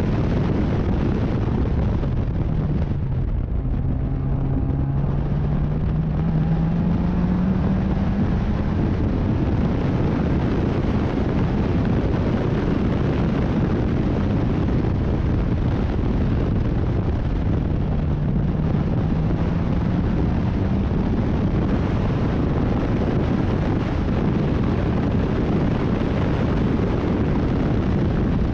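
Racing sports car engine running hard at speed under a heavy wash of wind and road noise, its pitch rising slowly twice as the car accelerates.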